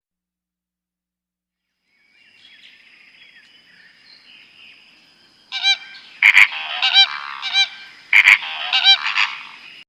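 Loud, repeated honking bird calls, in several bursts, begin a little past halfway. Before them there is a faint, quiet stretch with a thin high tone.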